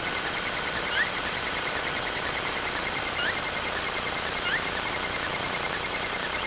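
A bird gives a short rising call three times, every one to two seconds, over the steady hiss of a trail camera's microphone. A faint rapid ticking runs underneath.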